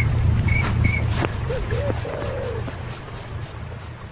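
Insect chirping in a fast, even pulse of about five chirps a second, over a steady low rumble, with a few low hooting calls; it all fades down toward the end.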